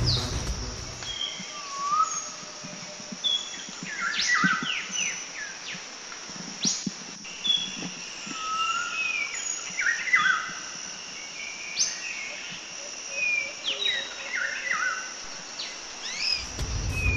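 Several birds chirping and whistling in woodland: short calls that sweep up and down and overlap, over a steady high hum. Background music fades out about a second in and comes back near the end.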